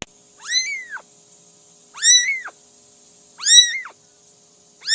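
Cat meowing four times, about every second and a half, each a short high call that rises and then falls in pitch.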